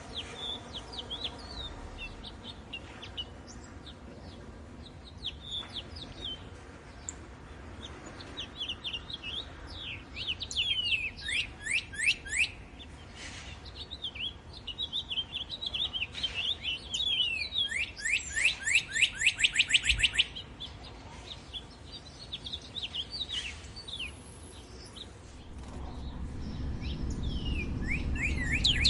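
Northern cardinals singing: bursts of rapid, repeated downslurred whistles, with scattered sharp chirps between. A low rumble builds near the end.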